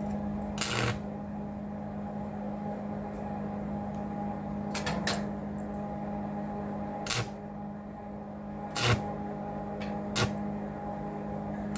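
Arc welder: about six brief bursts of arc noise, each lasting a fraction of a second, as the stick electrode is struck and the arc goes out again. A steady electrical hum runs underneath throughout.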